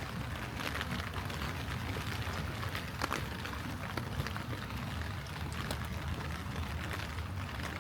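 Light rain falling, with scattered sharp drops ticking close by over an even hiss, and a steady low rumble underneath.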